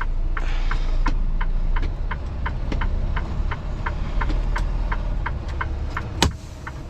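Semi-truck diesel engine idling with a steady low rumble, while a turn-signal or hazard flasher relay clicks about three times a second. Near the end there is one loud sharp burst, and after it the engine sound drops away.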